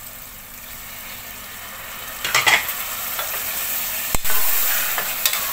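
Spice masala sizzling in hot oil in a pressure cooker. The sizzle swells about two seconds in as water rinsed from the spice plate goes in, with a few clinks against the pot and one sharp click about four seconds in.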